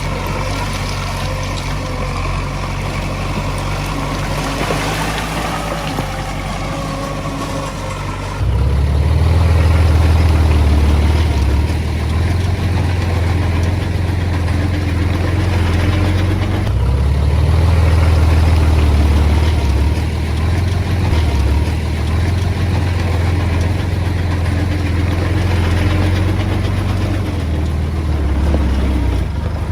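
Komatsu D20A bulldozer's diesel engine running, growing sharply louder and deeper about eight seconds in, then rising and easing several times.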